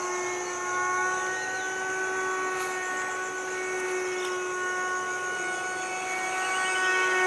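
A small electric motor, such as a handheld rotary tool, running with a steady high-pitched whine that holds its pitch throughout.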